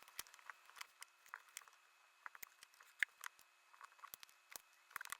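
Faint, scattered light clicks and rustles of paper cutouts and stickers being handled and pressed down for a collage.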